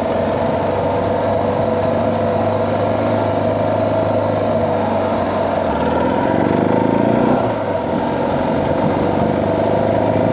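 Suzuki DR650's single-cylinder engine running under way; its pitch climbs about six seconds in, then drops back at a gear change a second and a half later.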